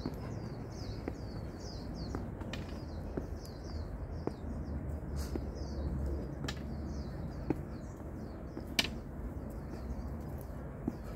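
Birds chirping in a quick, continuous series of short high notes, with scattered sharp clicks about once a second and a low rumble underneath.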